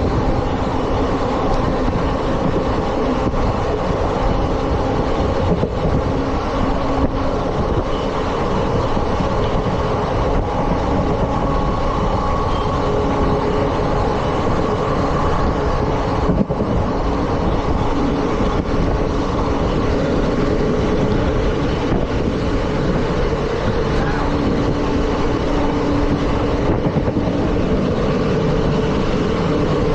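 ICF passenger coach running at speed on the track: a steady, loud rumble of wheels on rail, with a few held ringing tones in it.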